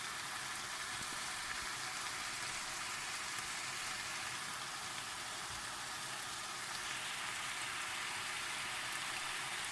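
Chicken frying in a pot, sizzling steadily.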